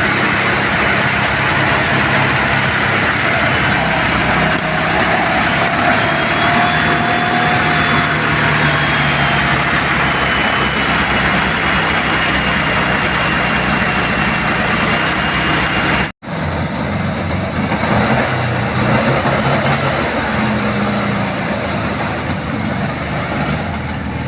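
Volkswagen Beetle engine running steadily at idle, cutting out abruptly for an instant about two-thirds of the way through and then going on.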